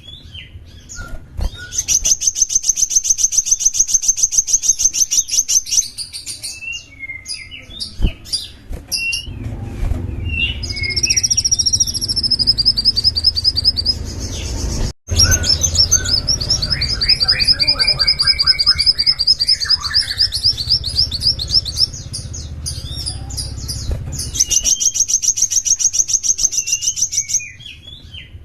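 Small songbird singing long, fast trills of high, sharp notes, broken by short chirps and slurred calls, with a lower run of repeated notes about two-thirds of the way through. A low rumble sits under the middle of the song, and the sound cuts out for an instant about halfway.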